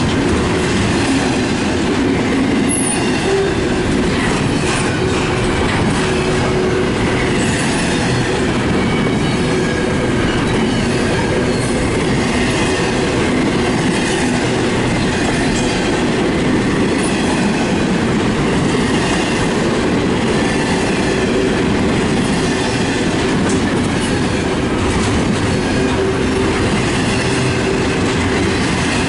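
Loud, steady rumble and clatter of a CN intermodal freight train's double-stack well cars rolling past on steel rails, with a faint wheel squeal coming and going.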